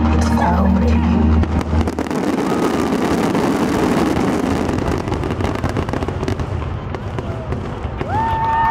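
Fireworks bursting in a dense run of crackles, with low show music fading out in the first two seconds. The crackle thins toward the end, where high whistles rise.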